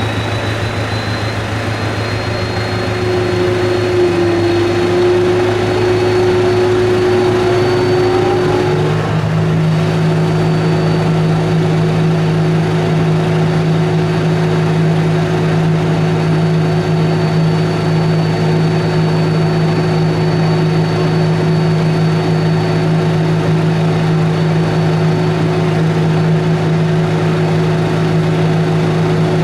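Type 16 Maneuver Combat Vehicle's diesel engine running steadily at idle after its start, with a thin high whine over a low hum. About nine seconds in, a deeper steady tone joins and the sound stays level after that.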